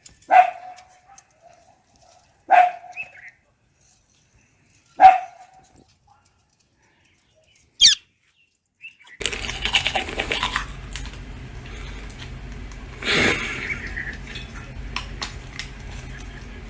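Three short barks about two and a half seconds apart. From about nine seconds in, a steady noisy background with scattered clicks.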